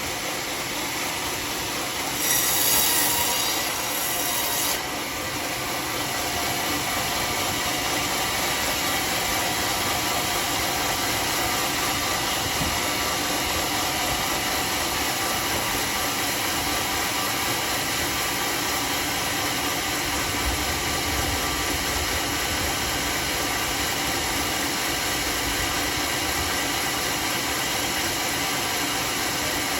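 Homemade sawmill running as it cuts teak, a steady mechanical din with a louder, higher screech from about two to five seconds in.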